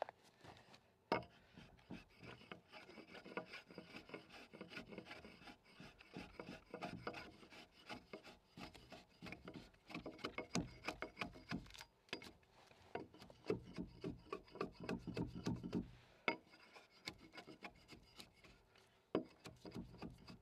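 A hand tool scraping and paring a wooden timber in quick, repeated strokes, with a few sharp knocks along the way.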